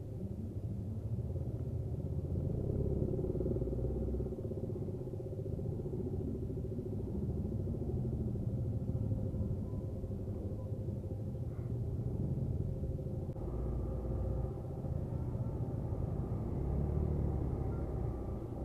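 Hero Xpulse 200's single-cylinder engine running at low speed in stop-and-go traffic: a steady low rumble that swells and eases a little a few times.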